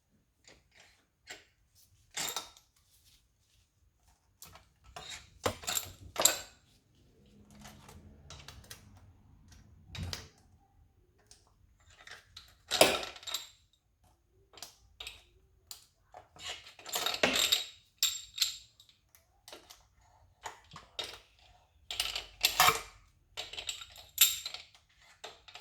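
Metal tools and engine parts being handled: irregular sharp clinks, taps and knocks, several a few seconds apart, with short clusters near the middle and end.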